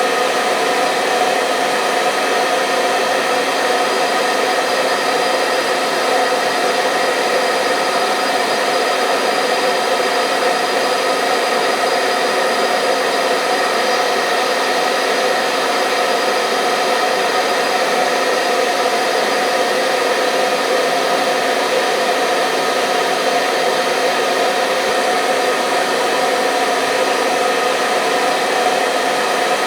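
Hair dryer blowing steadily: a constant rushing whir with a faint motor hum, unchanging throughout, played as white noise to lull babies to sleep.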